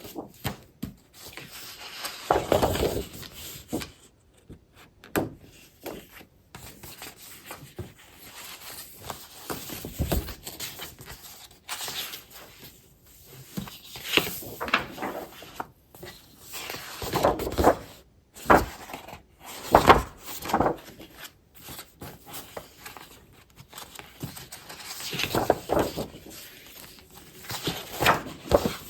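Scrapbooking paper and packaging being handled, rustling and shuffling in irregular bursts, with several louder handling noises.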